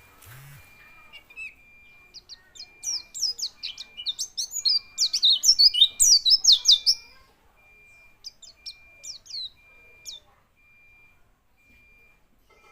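White-eye (pleci) singing a fast run of high, twittering chirps that grows dense and loud in the middle, then thins to scattered notes near the end.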